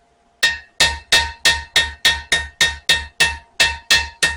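A hand hammer striking a steel knife blade on an anvil, about three blows a second. It starts about half a second in, and each blow rings briefly with a clear metallic tone.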